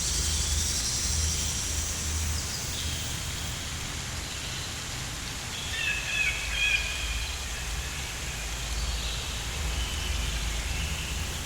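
Outdoor nature ambience: a steady rushing noise like rain over a low rumble, with a few short bird calls about six seconds in.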